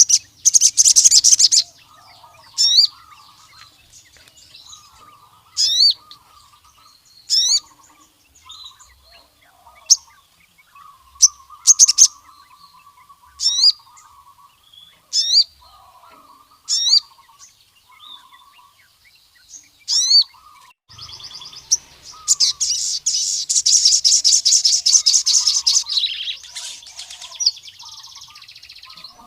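Male crimson sunbird (sogon) calling. Short, sharp, high chirps each sweep downward in pitch and repeat every second or two over softer, lower twittering. Past the middle they give way to a long, rapid chattering trill lasting several seconds.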